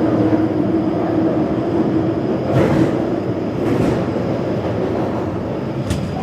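Taipei Metro train running on the Zhonghe–Xinlu line: a steady rumble with a constant hum, and a few sharp clacks from the wheels on the track.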